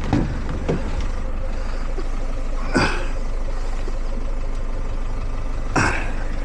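A vehicle engine idling steadily, with two brief noises, about three seconds in and again near the end.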